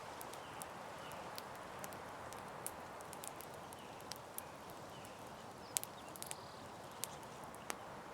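Campfire crackling: irregular sharp pops and snaps over a steady hiss, with one louder snap about six seconds in.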